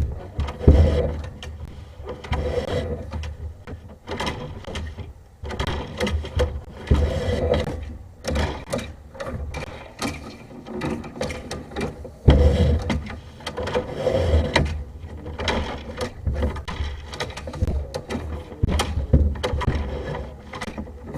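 Sewer inspection camera's push cable and reel being worked by hand, giving an irregular mechanical rattling with clicks and knocks.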